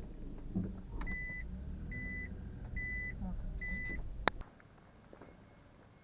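Car engine running with four evenly spaced high beeps from the car's warning chime, then a click about four seconds in and the engine rumble cuts off as the car is switched off.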